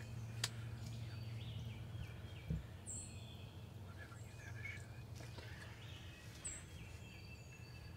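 Faint songbirds chirping, with scattered short calls. A sharp click comes about half a second in and a soft thump at about two and a half seconds.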